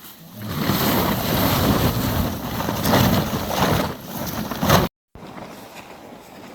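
Heavy rain and wind rushing loudly, with gusts buffeting the microphone. It cuts off abruptly about five seconds in, and a quieter steady hiss of rain follows.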